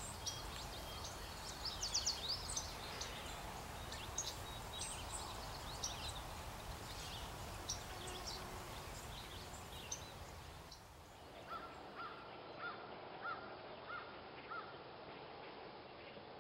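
Songbirds chirping and twittering in many short high notes over a steady low background noise. About eleven seconds in, the sound changes and a bird gives a run of about seven short, evenly spaced calls.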